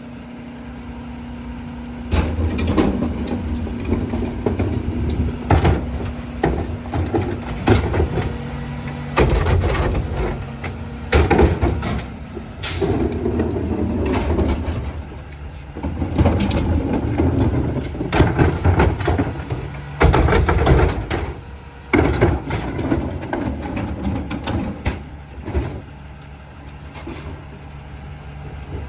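Mack rear-loader garbage truck's diesel engine running and revving in surges, with repeated clanks, bangs and crunching from the rear loader, and a brief high squeal twice.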